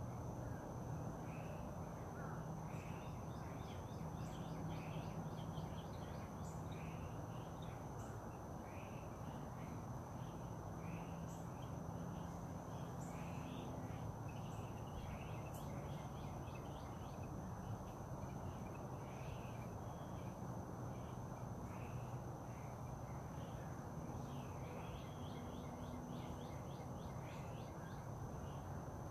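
Birds chirping and calling over and over, over a steady high-pitched tone and a low steady rumble.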